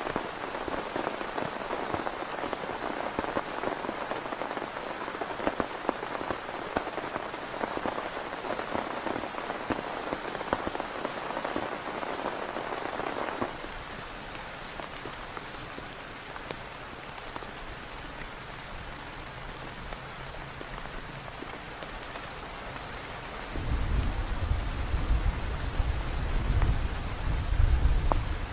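Heavy rain falling in dense, fast drop hits. About halfway it cuts abruptly to a softer, steadier rain sound. About five seconds before the end a loud deep rumble comes in under the rain.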